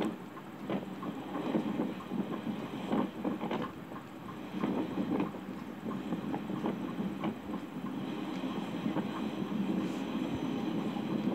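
Passenger train running, heard from inside a coach at an open window: a steady rumble of wheels on the rails with frequent, irregular clicks and clacks from the track.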